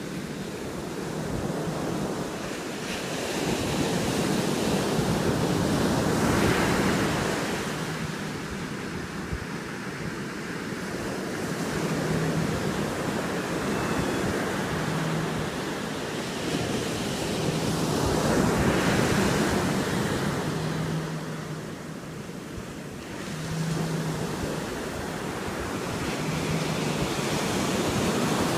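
Ocean surf: waves breaking and washing in, the noise swelling and ebbing in slow surges about every twelve seconds, with wind buffeting the microphone.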